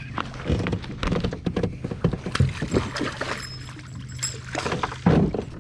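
Irregular knocks and clatter on a fishing kayak, over a steady low hum.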